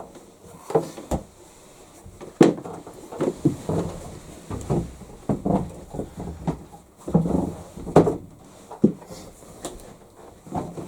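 Irregular knocks, bumps and scraping from a top-loading washing machine being handled, tilted and propped on a stand, with sharp knocks about two and a half and eight seconds in.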